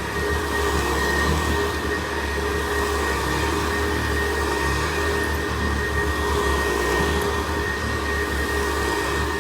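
1960s Hoover Senior upright vacuum cleaner running steadily, its motor giving a constant high whine over a low hum.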